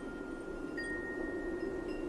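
Wind chimes ringing with long, sustained tones, a fresh chime struck about a second in and another near the end, over a steady low rush of light wind.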